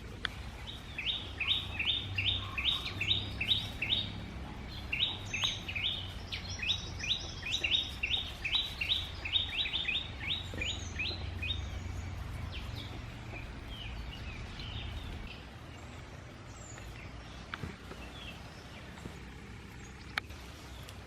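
A bird calling in two fast runs of repeated downward-slurred notes, about four a second: a short run about a second in and a longer one from about five seconds in, with scattered higher chirps after. A steady low rumble lies underneath.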